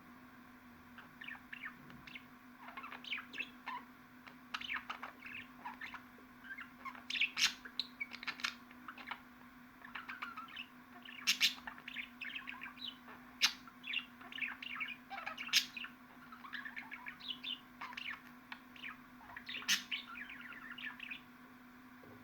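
Budgerigar chatter: a fast, continuous run of short chirps, warbles and clicks. A steady low hum sits underneath.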